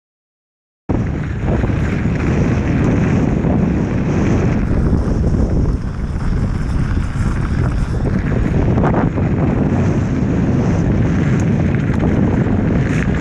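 Strong wind buffeting the microphone, a loud, steady rumble that cuts in abruptly about a second in after dead silence.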